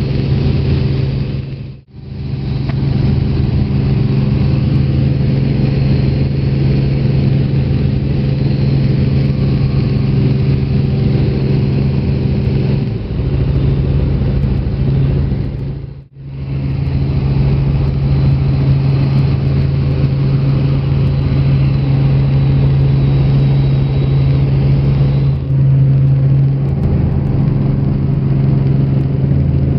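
Helicopter in flight heard from the cabin: a steady, loud engine and rotor drone with a strong low hum. The sound drops out abruptly and briefly twice, about two seconds in and about halfway through.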